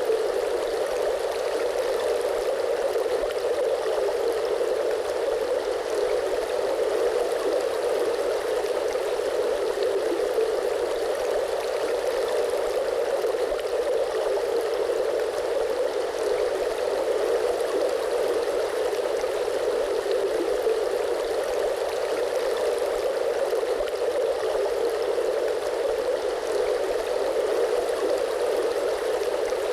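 Flowing water running steadily, an even rushing with no splashes, drops or breaks, fullest in the lower middle of the range.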